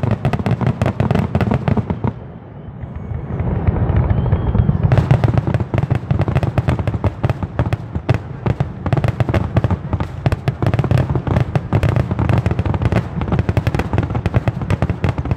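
Aerial fireworks display going off in a rapid, dense barrage of bangs and crackles; the barrage eases for a few seconds about two seconds in, then resumes just as densely.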